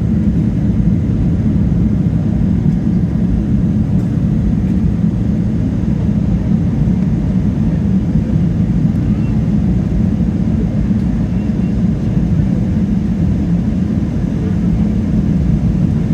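Steady low rumble of a Boeing 777-300ER with its GE90 engines running, heard inside the cabin.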